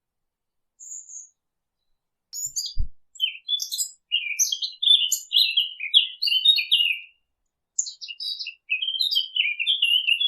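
Sylvia warbler (the 'fig bird') singing: a short note about a second in, then two long, fast, varied warbling phrases, the second starting after a short pause near eight seconds. A brief low thump about three seconds in.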